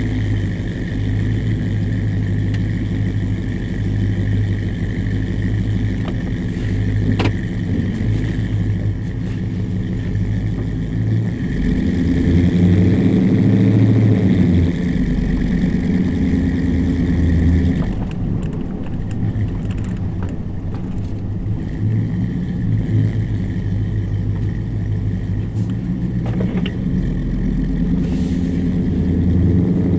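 Ford 7.3L Godzilla gasoline V8 with long-tube headers and a custom exhaust, running under way as the truck is driven through the gears. It gets louder about twelve seconds in and eases back a few seconds later.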